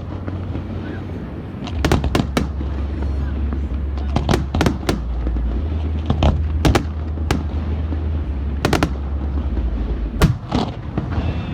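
Aerial fireworks going off: sharp cracks and bangs in quick clusters of two or three, over a steady low rumble.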